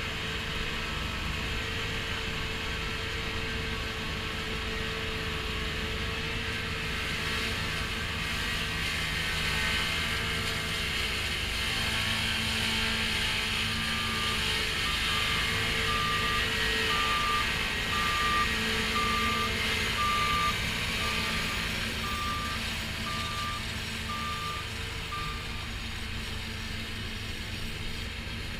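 New Holland TX5090 combine harvester running steadily while harvesting soybeans. About halfway through, an electronic warning beeper starts sounding about once a second, stopping a few seconds before the end.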